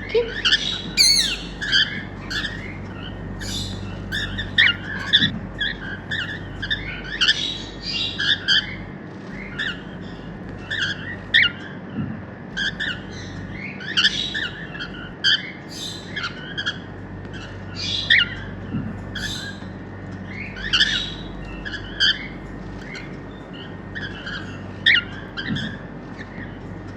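Normal grey cockatiels, a male and a female, calling: a string of short sharp squawks and chirps, many sliding up or down in pitch, coming irregularly one after another, over a steady low hum.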